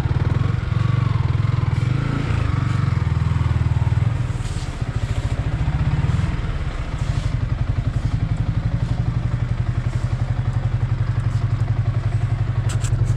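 Yamaha R15 V3's single-cylinder engine running as the motorcycle rolls slowly in, settling into a steady, even idle about halfway through. A few light clicks near the end.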